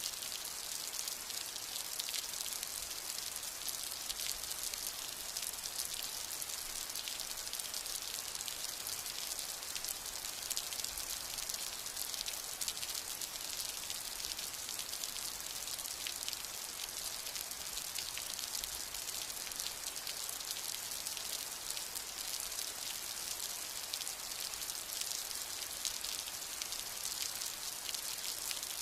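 Steady rain falling, a dense even hiss of many small drop ticks.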